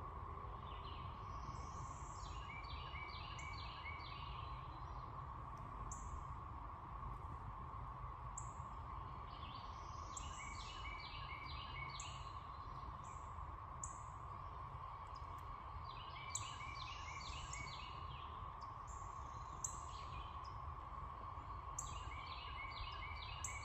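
Steady background drone with a low rumble. Over it a songbird sings a short phrase of quick repeated notes about every six seconds, with a few sharp chirps in between.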